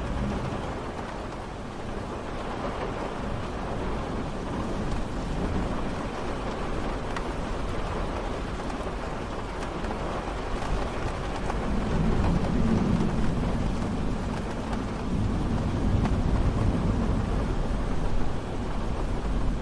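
Steady rain falling, with a low rumble of thunder rolling in about two-thirds of the way through and growing louder toward the end.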